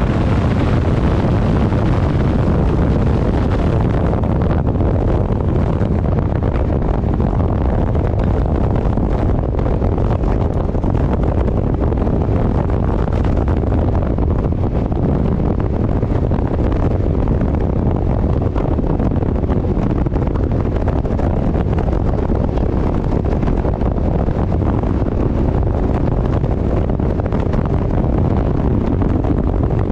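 Steady, loud wind buffeting the microphone on a moving motorcycle, with engine and road noise underneath.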